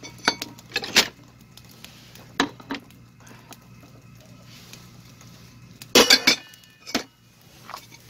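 Eating utensils clinking and knocking against a pot and dishes: a handful of scattered clinks, the loudest cluster about six seconds in.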